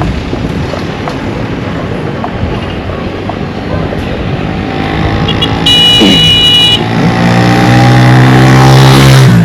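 Road noise from a moving vehicle, then two quick horn beeps and a longer horn blast about five to six seconds in. After that, a motor vehicle's engine runs loudly, its pitch slowly dropping.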